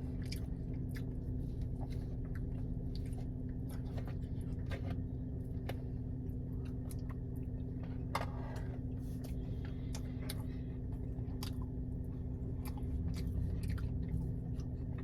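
Close-up chewing and biting of breakfast food (pancakes, sausage and eggs), with many small wet mouth clicks scattered throughout, over a steady low hum.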